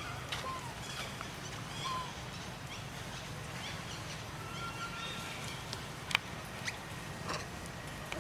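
Monkeys calling in short high squeaks and chirps, some sliding down in pitch, with a sharp click about six seconds in, over a steady low hum.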